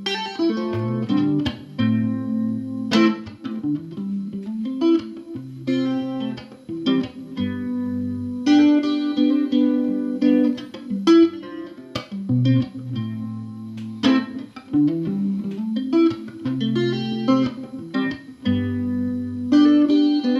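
Fingerpicked guitar playing an instrumental break: plucked chords over a moving bass line, with sharp picked attacks throughout.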